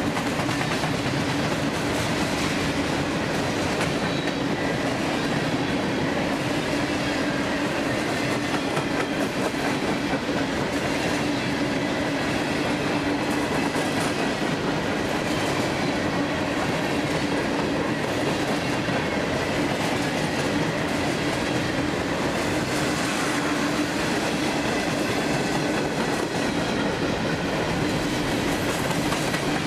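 Freight cars of a long CSX train rolling past at steady speed: continuous rumble of steel wheels on rail, with a steady hum and a clickety-clack of wheels over rail joints.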